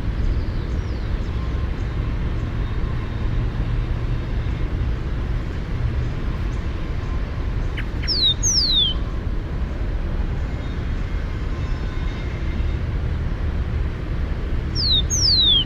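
Rufous-collared sparrow singing. Twice, about halfway through and again near the end, it gives a pair of clear whistles that slide down in pitch. Under it runs a steady low rumble of distant traffic.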